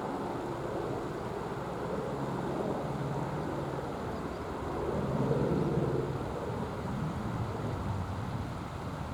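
Helicopter flying nearby: a steady low drone of engine and rotor that swells about five seconds in, then eases.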